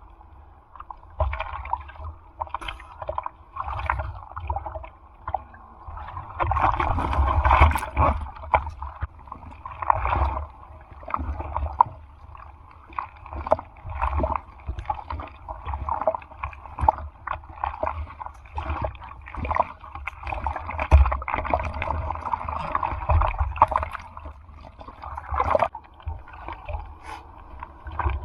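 Sea water splashing and sloshing close to the microphone in irregular surges every second or two, with heavy low buffeting.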